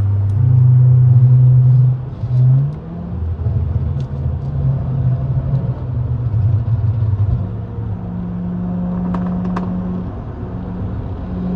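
Turbocharged BMW B58 inline-six of a 540i running at part throttle while rolling, a steady drone. Its pitch steps up about half a second in, drops with a short blip near two seconds, turns rougher for a few seconds, then settles at a higher, even drone.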